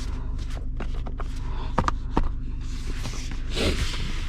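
Steady low hum inside the cabin of the Mazda CX-5 SUV, with several light clicks in the first two seconds and a brief rustle near the end.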